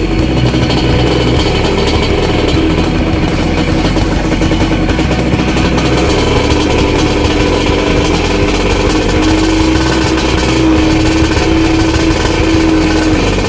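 Tuned Suzuki TS 125's two-stroke single-cylinder engine running steadily, its exhaust note holding one pitch.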